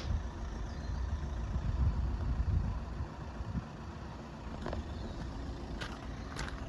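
Low rumble of an idling engine, easing off about three seconds in, with a few short clicks near the end.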